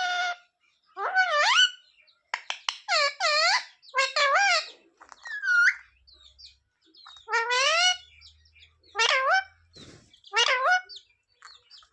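A pet green parrot calling or talking in a string of short, shrill utterances, about one a second, each sliding up and down in pitch, with a few sharp clicks between them.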